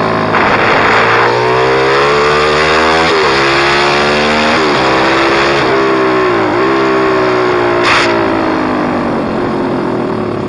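Pit bike's single-cylinder engine running hard, its pitch climbing and then dropping sharply several times as the throttle is worked.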